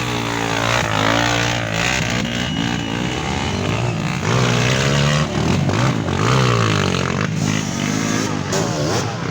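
Several off-road trail motorcycles revving, their engine pitches overlapping and repeatedly rising and falling as they push through a muddy bog.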